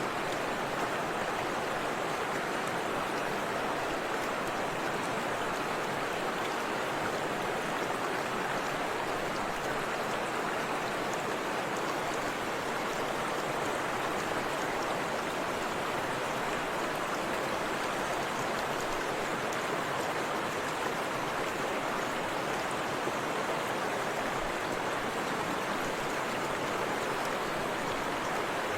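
Forest river and small waterfall rushing steadily, an even wash of flowing water with no breaks.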